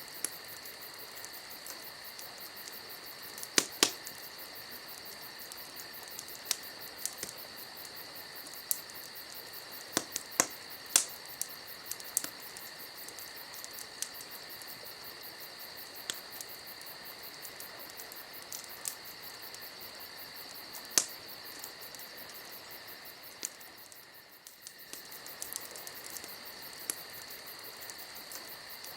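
Campfire crackling, with sharp irregular pops scattered through, over a steady high chirring chorus of night insects that dips briefly about three-quarters of the way in.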